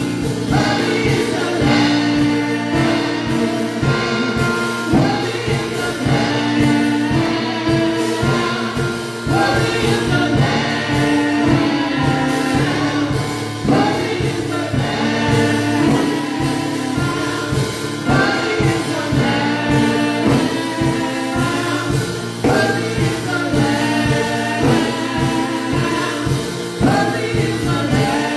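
Live gospel worship music: a choir singing over a band with a steady beat.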